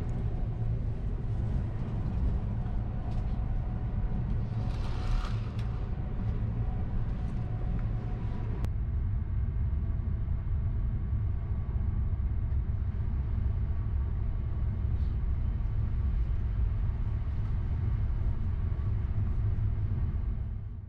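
Steady low rumble of the Sunrise Express, a 285 series electric sleeper train, running at speed, heard from inside a compartment.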